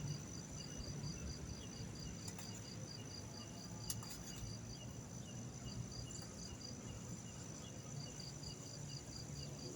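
Crickets chirping in an even pulse of about four chirps a second, with a steady high insect tone and a low rumble underneath. A single sharp click sounds about four seconds in.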